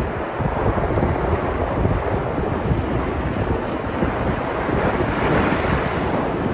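Sea surf: waves breaking and washing ashore in a steady, continuous rush, one wave breaking a little louder about five seconds in. Wind buffets the microphone, adding a low rumble.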